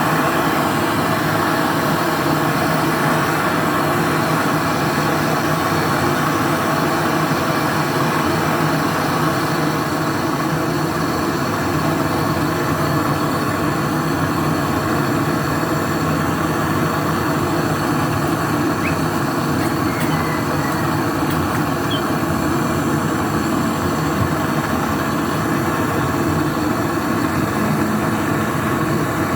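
Brazing torch flame burning with a steady, loud hiss, heating the joint where a charging valve is being fitted to a refrigerator compressor's charging line.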